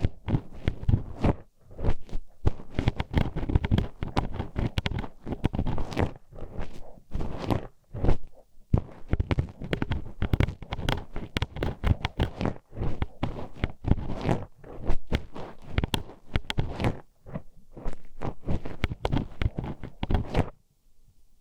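Metal hairpin poked into a binaural microphone's ear, making rapid, irregular clicking, tapping and scraping, loud and close. It stops about a second before the end.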